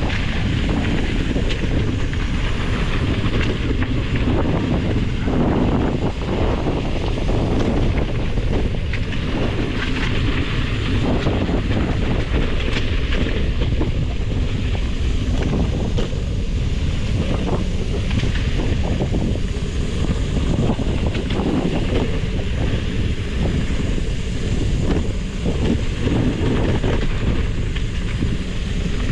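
Wind buffeting the microphone: a loud, steady rumble with a few faint knocks scattered through it.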